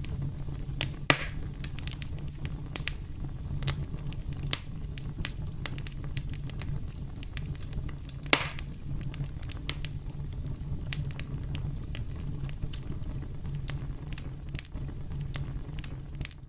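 Campfire crackling: a steady low rumble with frequent sharp crackles, and two louder pops, about a second in and about eight seconds in.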